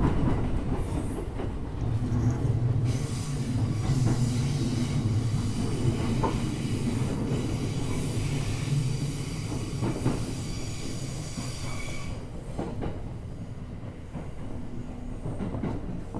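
E231-1000 series electric commuter train running slowly into the platform, wheels rumbling on the rails with a few faint joint knocks. A high squeal joins about three seconds in and stops about twelve seconds in, and the running sound eases off as the train draws to a stop.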